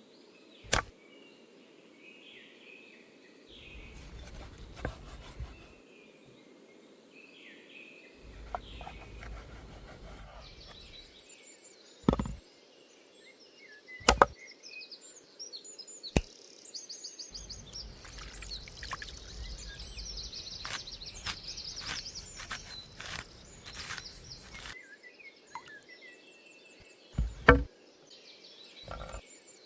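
A few sharp, spaced knocks of a knife on a wooden cutting board, between stretches of soft handling noise, with birds chirping.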